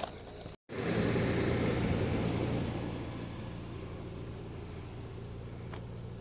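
A car engine idling, with a steady low hum. It comes in suddenly after a short gap in the sound, is loudest for the first couple of seconds, then settles to a steady level.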